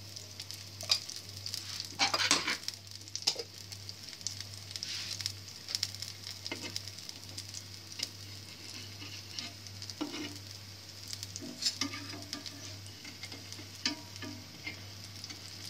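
Semolina (suji) patties shallow-frying in mustard oil on a flat iron tawa, a steady sizzle, with scattered clicks and scrapes of a metal spatula against the griddle.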